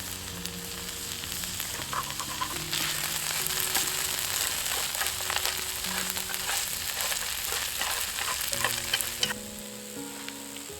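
Food sizzling and frying in a pan over a campfire, with a dense hiss and many small pops and crackles. The sizzle cuts off abruptly near the end. Soft background music with sustained notes plays underneath.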